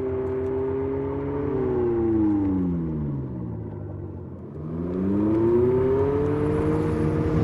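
Abarth 500e's sound generator playing a synthetic petrol-engine note. The pitch holds steady, falls away over about three seconds as the car comes off the power, then climbs again about four and a half seconds in and levels off as it accelerates.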